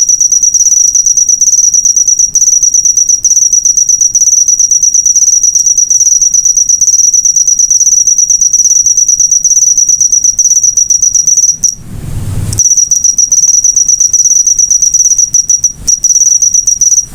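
Cricket (jangkrik) chirping in a loud, high-pitched, rapid continuous trill. About twelve seconds in, the trill breaks off for under a second while a low rumble is heard, then resumes.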